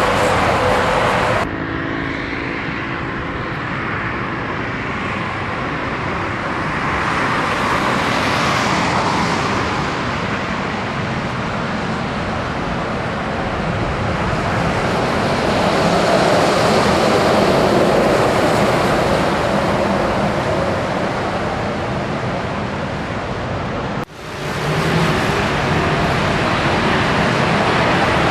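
Steady road and engine noise of a moving truck on the road, with a sudden drop in level soon after the start and a brief dropout near the end.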